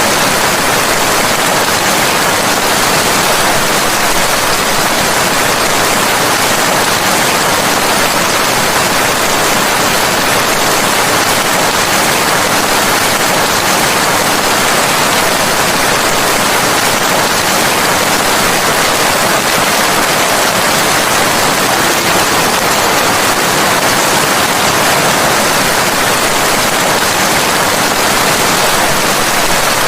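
Steady rain, a dense even hiss with no single drops or thunder standing out.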